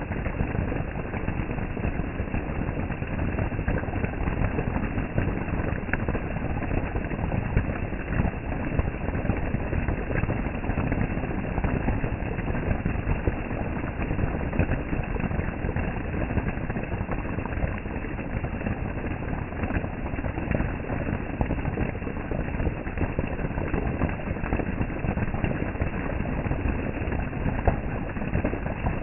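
Heavy rain falling, a steady dense noise made of many small hits.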